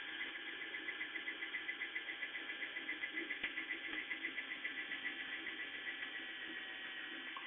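Power drill running slowly at low trigger, with a steady faint whine and a fast even pulsing of about six beats a second.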